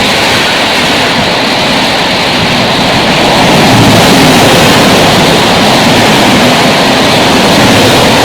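Passenger train passing close at high speed, a steady loud rush of wheels and air.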